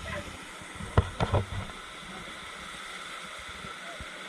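Steady rush of flowing river water, with a quick cluster of sharp knocks or splashes about a second in.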